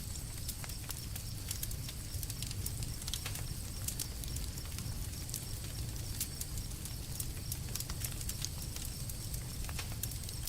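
Wood campfire burning, crackling with frequent irregular sharp pops and snaps over a low steady rumble.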